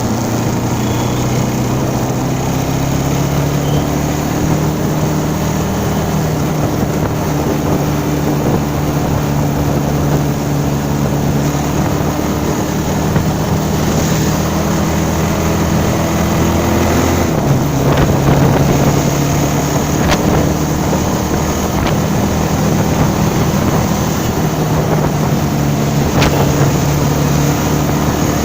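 Vehicle engine running under way with wind rushing over the microphone. The engine note climbs slowly, drops suddenly about two-thirds of the way through, as at a gear change, then settles and climbs again.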